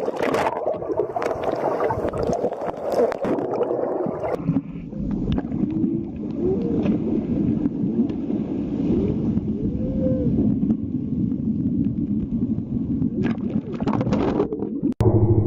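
Whale calls heard underwater: a series of moaning calls that rise and fall in pitch over a rushing water background, with sharp clicks in the first few seconds.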